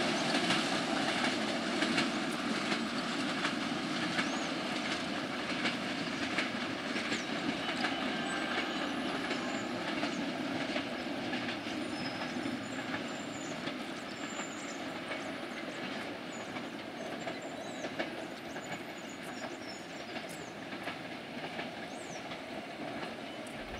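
Intercity passenger train's coaches rolling away on the track, wheels clicking over the rail joints, the rumble slowly fading as the train recedes.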